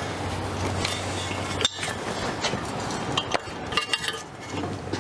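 Hand tools and metal engine parts clinking and knocking during engine teardown work, with light metallic rings a few times and a steady low hum underneath.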